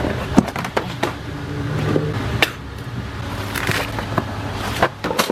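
A steady low motor hum, with several sharp clicks and knocks and a brief hiss about halfway through.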